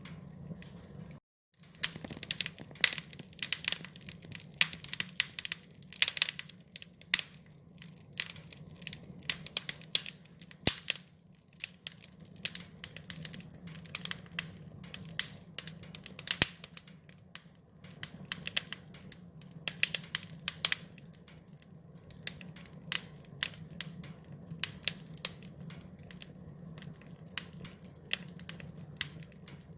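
Wood fire crackling: irregular sharp pops and snaps over a steady low rumble. The sound cuts out for a split second about a second in.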